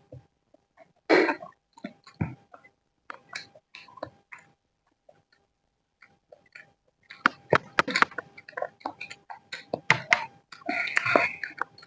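Close-miked eating of fried rice: chewing and mouth smacking with many short sharp clicks, sparse at first and thicker in the second half, and a short breathy rush near the end.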